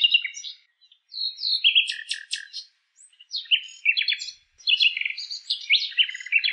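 Common nightingale singing: a series of varied phrases of clear whistles and fast repeated notes, with short pauses between them.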